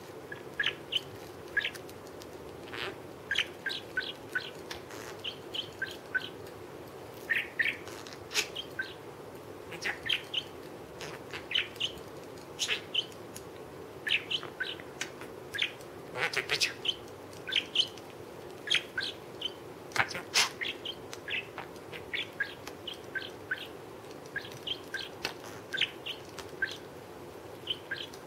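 Small pet parrot making a long, irregular string of short chirps and clicks, several a second, with now and then a sharp louder click: its 'beatbox' of mouth clicks.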